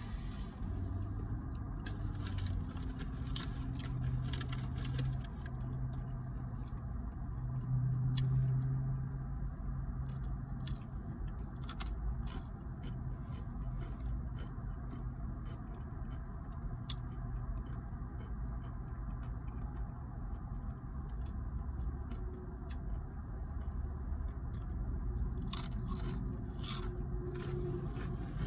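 A person eating close to the microphone: chewing and crunching, with many small clicks and scrapes scattered through, over a steady low rumble.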